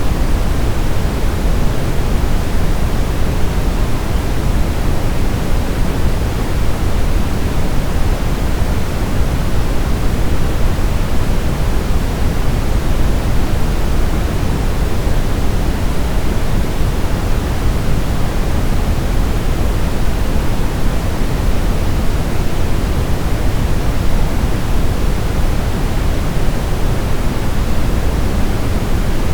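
Steady brown noise: an even, deep rushing hiss, strongest in the low end and rolling off toward the highs, with no change in level.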